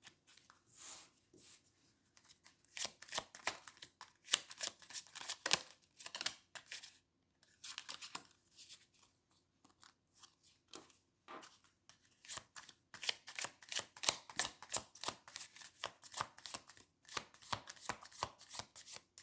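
A deck of tarot cards being shuffled by hand: quick flicking and slapping of cards in irregular spurts with short pauses, busiest in the second half.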